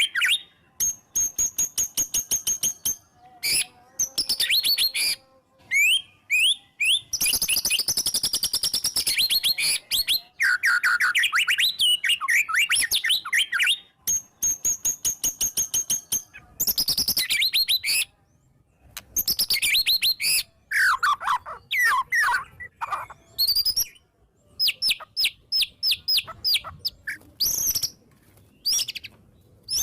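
White-rumped shama singing a varied, fast song of rapid trills, runs of sharp repeated high notes and falling whistles, with short pauses between phrases.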